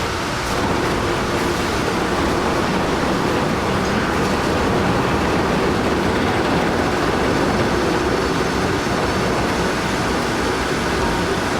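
Heavy diesel machinery running: a loud, steady rumble with no breaks.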